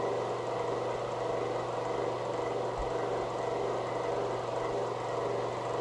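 Microwave oven running with a steady hum, heating pieces of bar soap.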